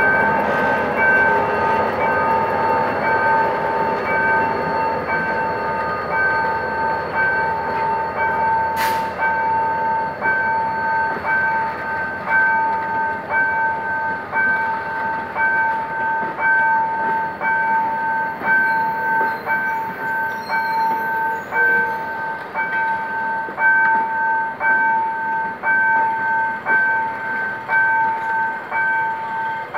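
Level-crossing warning bell ringing in even, repeating strokes, over the rumble and clatter of passenger coaches rolling past on the rails. At the start the GM GT22CW-2 diesel locomotive's engine is heard pulling away, and a single sharp clank comes about nine seconds in.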